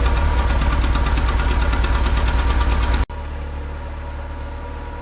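Car engine idling with a loud, fast, even pulsing: the rough idle the owner cannot explain, which sets in after the engine first idles smoothly. About three seconds in the sound drops abruptly to a quieter, steadier idle.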